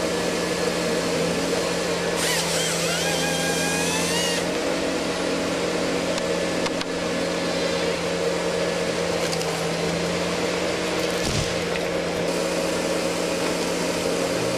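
Heavy machine's engine running steadily at a constant pitch, with a brief wavering whine about two seconds in.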